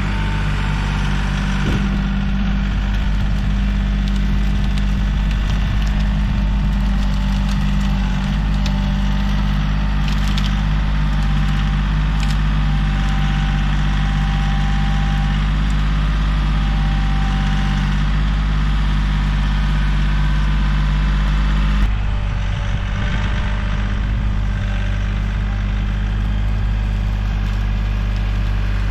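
Kioti CK3510 compact tractor's diesel engine running steadily at raised revs. About 22 seconds in, its note drops to a lower engine speed.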